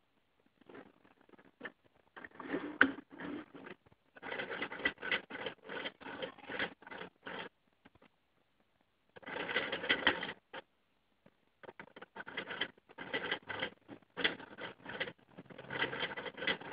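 Two-piston Lego engine model running: its plastic pistons and linkages clatter and rattle in fast runs of clicks. It starts and stops several times, with a pause of about a second and a half near the middle.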